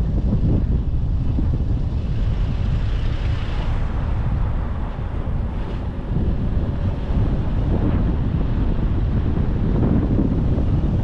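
Wind buffeting the microphone over the steady low rumble of a car driving along a road.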